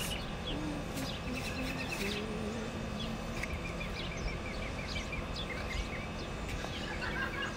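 Outdoor ambience: a steady background hiss and rumble with small birds chirping, including a quick run of about ten short chirps near the middle.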